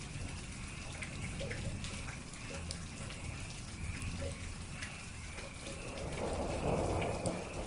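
Steady rain with scattered close drops ticking, a faint chirping repeating high above it, and a louder swell of rushing water about six seconds in.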